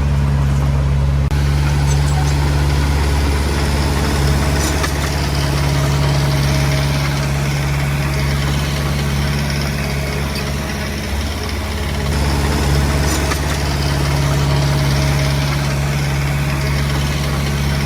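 Diesel engine of heavy earthmoving machinery running steadily with a deep, even hum.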